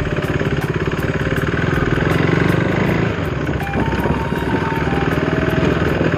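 Motorcycle engine running while riding, easing off briefly about three seconds in before pulling again.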